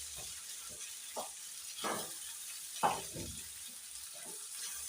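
Chicken gizzards sizzling faintly in a frying pan, a steady hiss, with a few short scraping knocks about one, two and three seconds in, typical of a spoon against the pan.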